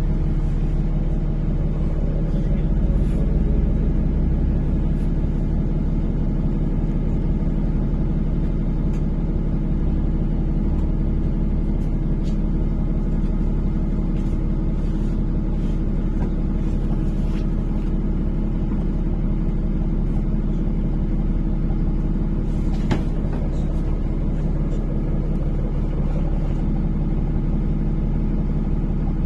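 Inside a NefAZ-5299 city bus under way: the engine's steady low hum and road rumble fill the cabin, with an occasional faint click or rattle.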